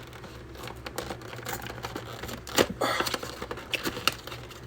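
Toy packaging being handled and opened by hand: irregular small clicks and crinkles, the loudest just under three seconds in.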